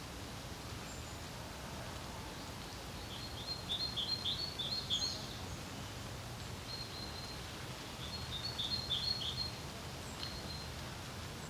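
A songbird sings two short phrases of rapid repeated high notes, a few seconds apart, over a steady low rumble of wind.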